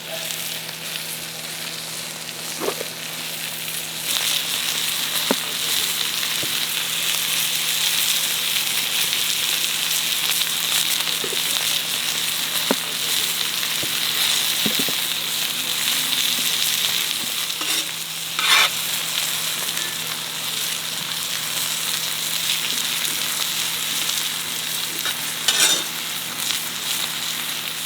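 Food frying, a steady sizzling hiss with scattered small pops and two louder crackles in the second half.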